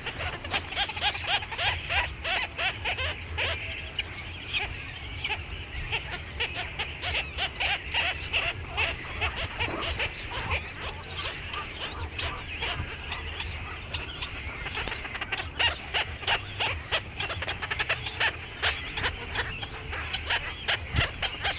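A flock of small birds chirping and chattering together: a dense, continuous stream of short, high calls overlapping one another.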